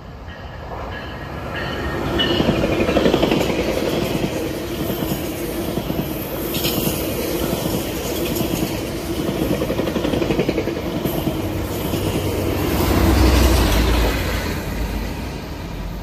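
GO Transit bilevel commuter train passing at speed alongside a moving freight train: steel wheels clattering over the rails, with a sharp clank about halfway through. A deep rumble swells near the end, then eases off.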